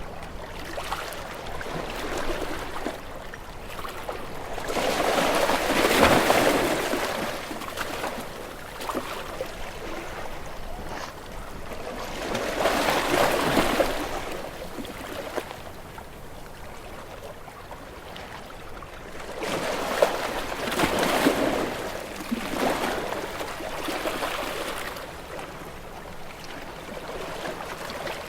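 Sea waves washing against rocks, with three surges that swell and fall away over a couple of seconds each, over a steady background wash.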